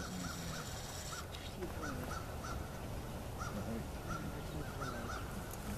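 Birds calling over and over with short rising-and-falling calls, about one every half second at uneven spacing, over a steady low background noise.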